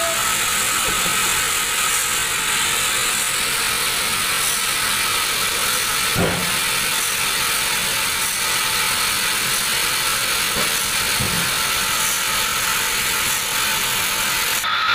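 Large band sawmill running as it saws a teak log: a steady mechanical noise with a faint steady whine, and a short knock about six seconds in.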